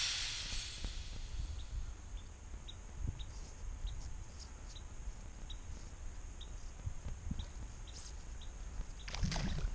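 A small bird chirping, short high chirps repeated about every half second, over a low rumble of wind on the microphone. A brief rushing swish near the end.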